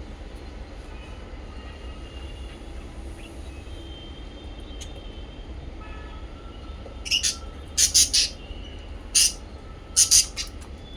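Small pet parrots calling: soft faint whistled notes at first, then a run of about six loud, shrill chirps in the second half. A steady low rumble sits underneath.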